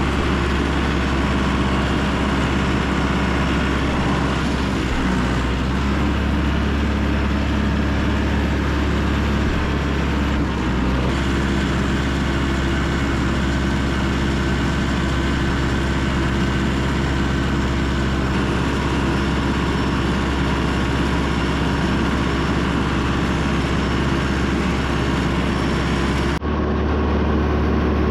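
Tractor engine running steadily, with a strong low drone; the sound changes abruptly near the end.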